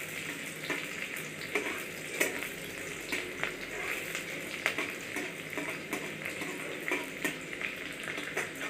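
Chopped onion and green chilli frying in hot mustard oil in a metal kadai, with a steady sizzle. Irregular short clicks and scrapes run through it as a steel spatula stirs the onions to brown them.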